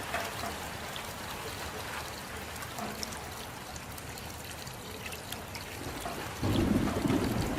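Rain with water trickling and pouring, individual drops ticking on top. About six seconds in, a louder low rush sets in suddenly.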